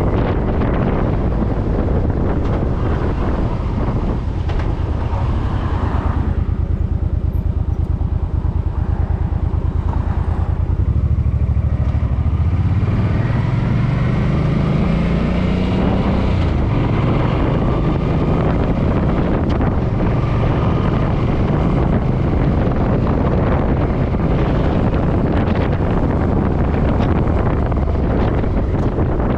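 Suzuki M50 motorcycle's V-twin engine running under way, with wind buffeting the microphone; about halfway through the engine pitch climbs as the bike accelerates.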